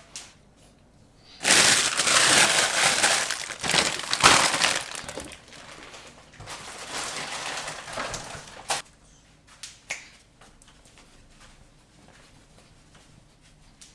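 Loud crunching and rustling close to the microphone for about three seconds, starting shortly after the start, with a softer stretch of the same a few seconds later.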